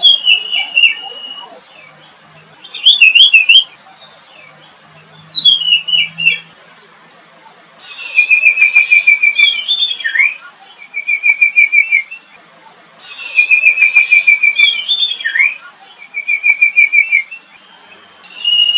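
Songbird singing: about seven phrases, each of quick slurred notes followed by a fast, even trill, with a second or two between phrases.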